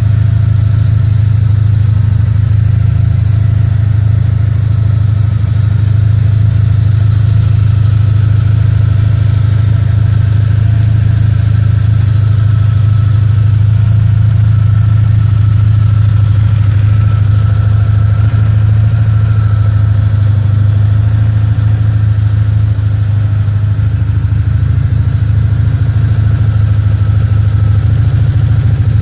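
BMW R1150R's boxer twin idling steadily through an aftermarket exhaust silencer, a loud, even low note.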